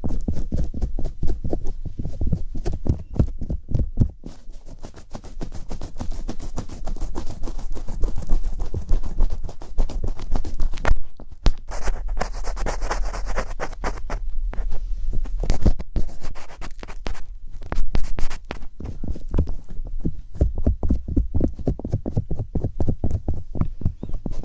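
Rapid, continuous tapping and scratching on an object held close to the microphone, in quick uneven strokes.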